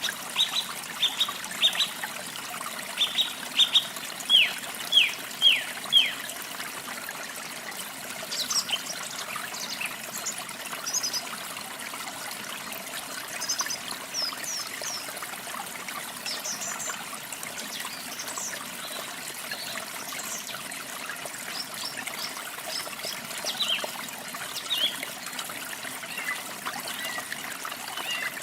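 Small songbirds chirping over a steady trickle of running water. About a dozen quick chirps, each sliding down in pitch, come in a run in the first six seconds. Scattered higher, sharper chirps follow.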